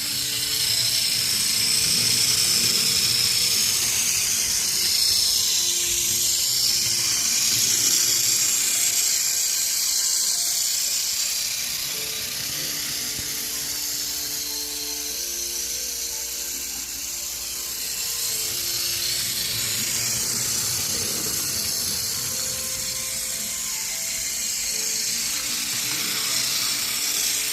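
Battery-powered Hit Toys Gordon toy train running around its plastic track, its small electric motor and gears whirring steadily and growing louder and softer as it passes; a simple tune of plain held notes plays alongside.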